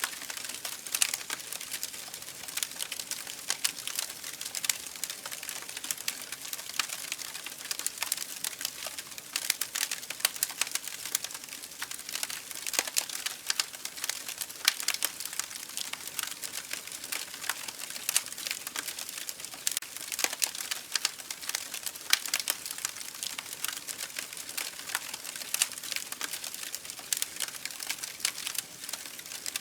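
Campfire burning with a dense, irregular crackle and snapping of the wood over a steady hiss.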